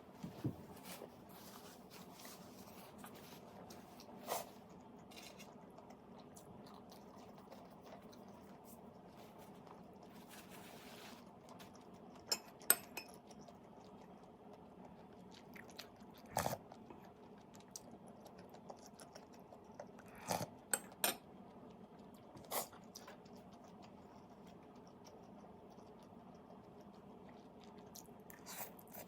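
A person eating for a mukbang: scattered crisp bites and crunches, about ten in all, with quieter chewing between them over a faint steady hum.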